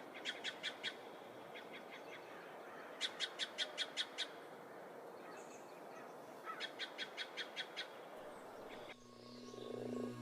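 A bird calling in three rapid series of short, evenly spaced high notes, about six or seven notes a second, over a soft steady outdoor hiss. Soft ambient music fades back in near the end.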